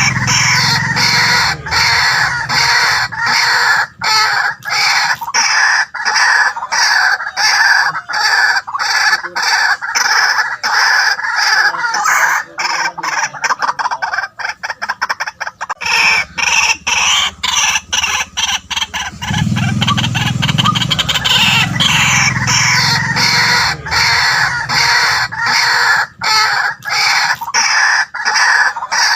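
White-breasted waterhen calling: a loud, rhythmic run of repeated croaking notes, with a stretch of faster, shorter notes about halfway through.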